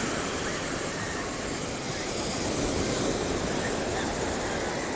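Steady rushing beach ambience of surf and wind on a phone microphone, with a low rumble underneath and no distinct single events.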